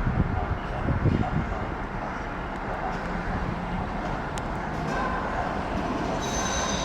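Train moving along the track: a steady low rumble with a few knocks in the first second, and a high-pitched squeal setting in near the end.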